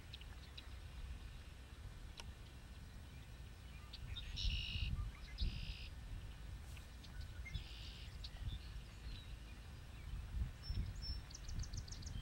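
Songbirds calling over a steady low rumble: two short buzzy calls about four and a half and five and a half seconds in, another around eight seconds, and a quick run of high ticking notes near the end.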